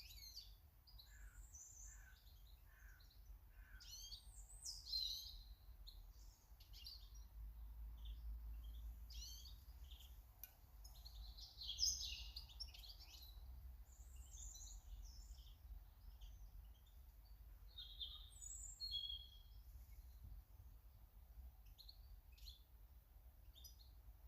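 Faint garden birdsong: several small birds giving short high chirps and brief twittering phrases on and off throughout, over a low steady rumble.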